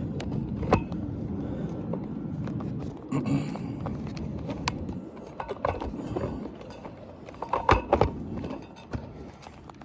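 Handling noise as a camera is set up on the roof: a low rumble in the first half, then scattered sharp clicks and knocks, the loudest few close together near the end.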